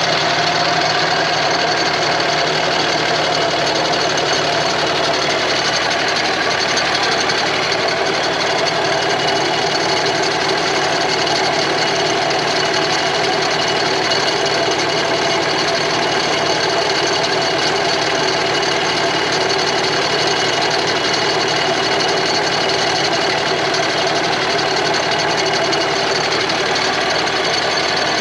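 Steady engine and road noise inside a pickup truck's cab while driving.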